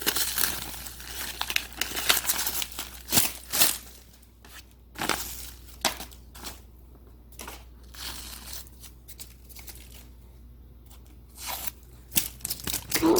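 Masking tape and paper being peeled off a freshly spray-painted engine intake, tearing and crinkling in irregular bursts with short pauses.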